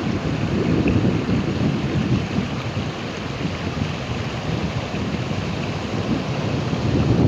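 Ocean waves breaking and washing continuously, a deep steady rush that swells about a second in and again near the end, with some wind on the microphone.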